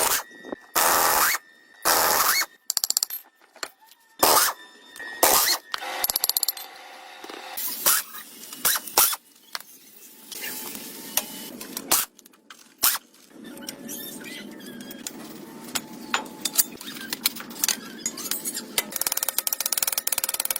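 Hand-tool work on metal parts: an irregular string of knocks, clicks and scrapes, with a fast rattling run near the end.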